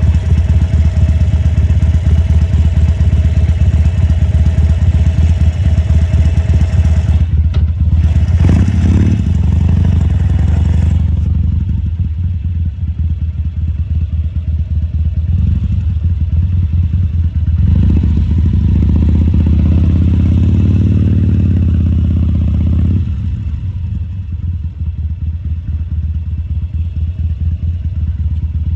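Harley-Davidson Sportster XL1200C's air-cooled V-twin running while ridden at low speed, the throttle opened and closed. The sound dips briefly about seven seconds in, grows quieter from about eleven seconds, then swells twice as the throttle is opened again.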